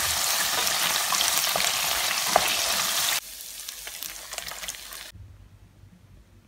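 Shrimp sizzling in hot olive oil in a pan, stirred with a wooden spatula that clicks and scrapes against the pan. About three seconds in it cuts to a quieter sizzle as coconut milk is poured over the fried shrimp, and the sound stops about five seconds in.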